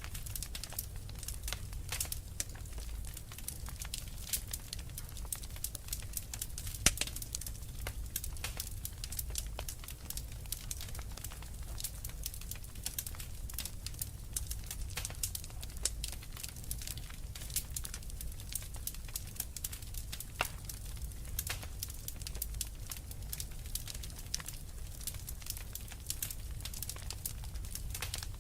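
Wood fire crackling in a fireplace: a dense, irregular run of small pops and snaps over a low steady rumble, with one louder pop about seven seconds in.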